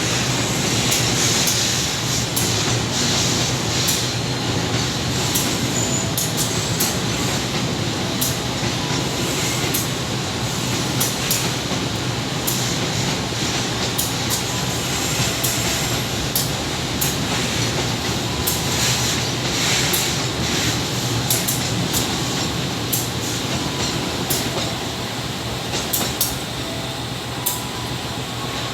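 Container freight train running on the rails: a steady rumble and rush, with many sharp clicks of wheels going over rail joints.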